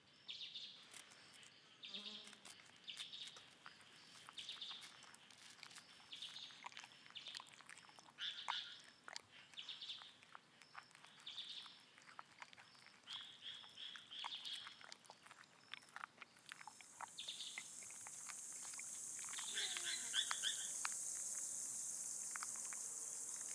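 Faint forest ambience: a small animal chirps over and over, about once a second, among scattered sharp clicks. About two-thirds of the way in, a steady high insect buzz fades in and holds.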